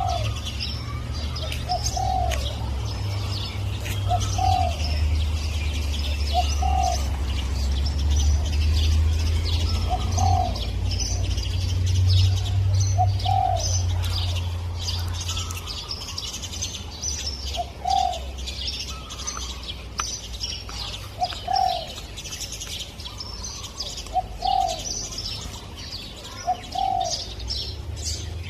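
Spotted dove cooing: about ten short coo notes, spaced two to four seconds apart, over steady high chirping from small birds. A low rumble under the first half fades about halfway through.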